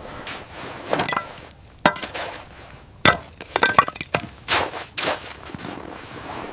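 A run of sharp cracks and knocks at irregular intervals, some followed by a short rasping scrape.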